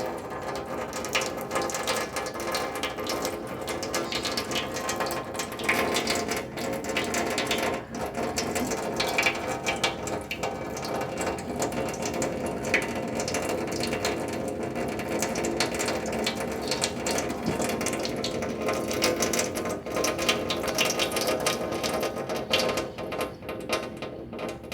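Domestic cat lapping water: a steady run of quick, wet clicking laps.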